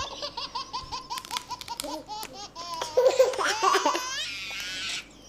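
Baby laughing in short repeated bursts, getting louder about three seconds in and ending in a long high-pitched note.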